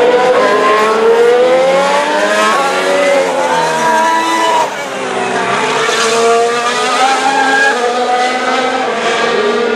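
Several 2017 Formula 1 cars' 1.6-litre turbocharged V6 engines at racing speed, their overlapping notes rising and falling as they accelerate and change gear.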